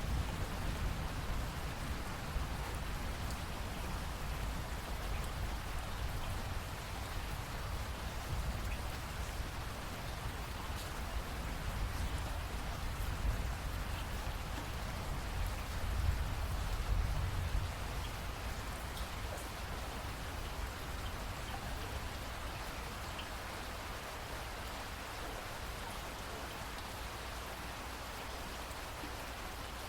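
Steady rain falling, an even hiss, with a low rumble swelling a little past the middle.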